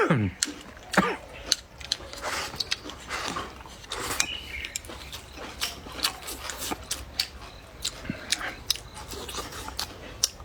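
Close-up chewing and crunching with many wet, sharp mouth clicks: crisp sour-spicy pickled Chinese onion bulbs (rakkyo) being eaten.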